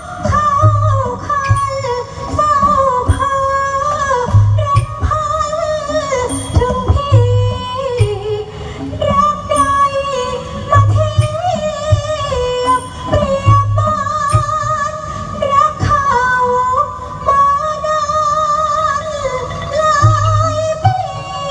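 A voice singing a wavering, ornamented melody over band accompaniment, with a low drum beat every few seconds.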